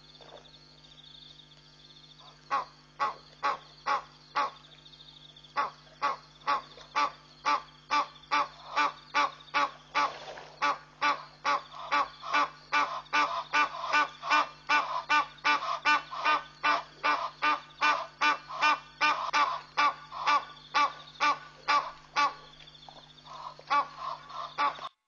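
A bird calling over and over, about two calls a second. The calls start a few seconds in, break off briefly, then run on steadily before fading out near the end. A steady low hum lies underneath.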